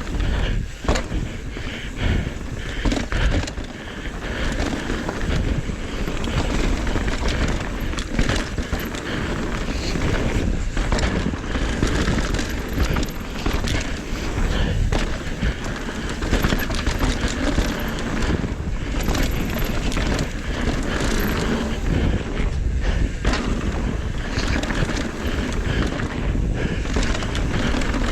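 Mountain bike riding fast down a dirt trail: a steady rush of tyre and wind noise on the bike-mounted camera's microphone, with frequent knocks and rattles from the bike over roots and rocks.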